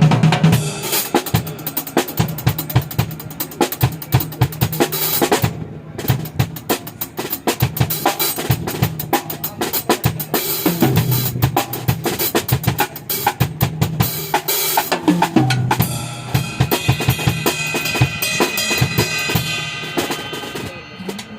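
Drum kit played in fast, busy patterns of snare, bass drum and tom hits, with cymbals ringing through. There is a brief break about five and a half seconds in, and the cymbals ring on more strongly near the end.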